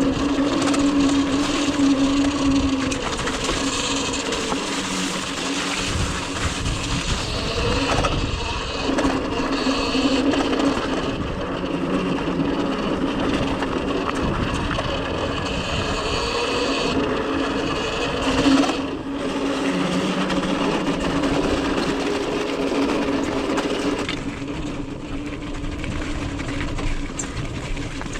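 Cake Kalk OR electric dirt bike riding along, its motor giving a steady whine that shifts a little in pitch with speed, over a continuous rushing noise.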